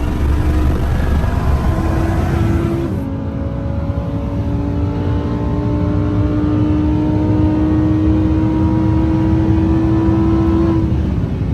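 A car engine pulling hard under load, its note holding steady and climbing slowly for several seconds, then dropping as it backs off near the end.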